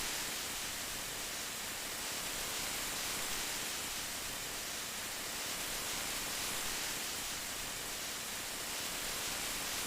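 Steady rain: an even, unbroken hiss, strongest in the high range, with no separate drops or gusts standing out.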